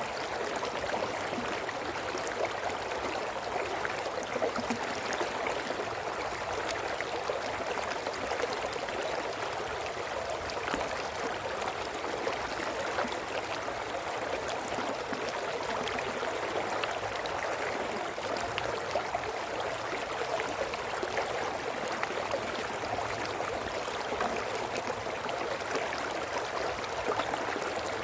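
A small brook flowing and babbling steadily over stones, a continuous gurgling wash of water.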